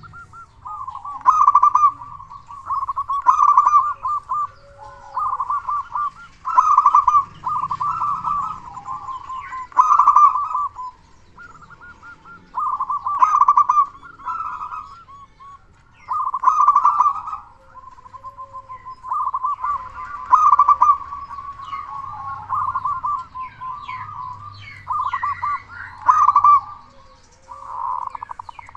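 Zebra dove (perkutut) singing: repeated phrases of rapid, pulsing coos, about one phrase every two seconds, at a steady pitch.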